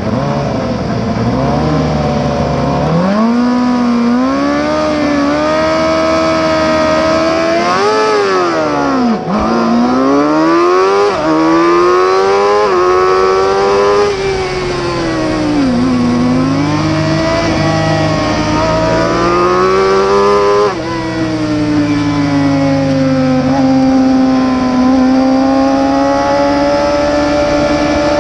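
Superbike racing motorcycle engine at high revs under hard acceleration, its pitch climbing in long sweeps through the gears. It drops sharply around 9 s, falls again between 14 and 16 s and once more at about 21 s, then climbs slowly near the end.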